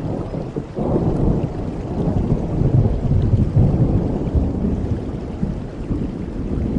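Thunder rumbling over steady rain: the rumble swells sharply about a second in, is heaviest a couple of seconds later, then slowly fades.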